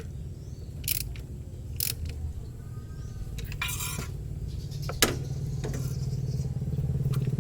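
Spark plug wrench working on the engine's spark plugs: scattered sharp metal clinks, over a steady low hum that grows louder toward the end.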